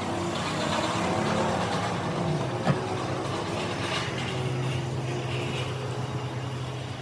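An engine running steadily with a low hum, its pitch shifting slightly a little over two seconds in, and one sharp knock just after.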